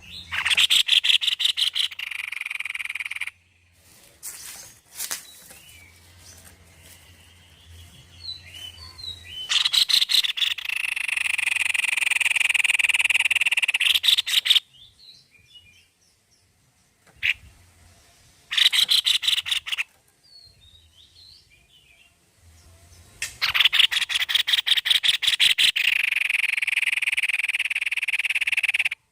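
White-bibbed babbler (tepus leher putih) singing in four loud bouts. Each begins with a quick run of repeated notes, and most run on into a long, steady rattling trill of several seconds, with soft chirps in the gaps between bouts.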